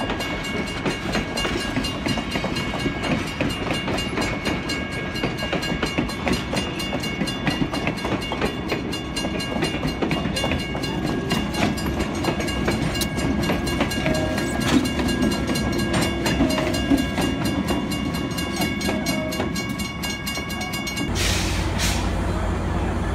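Passenger coaches and a flatcar of a heritage train rolling past at close range: a steady rumble with rapid clicking of the wheels over the rail and a faint steady high whine. Near the end it cuts abruptly to a short hiss and then a steady low hum.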